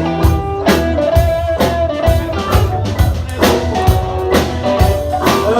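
Live blues-rock band playing an instrumental stretch between vocal lines: drum kit keeping a steady beat, with electric guitar and bass.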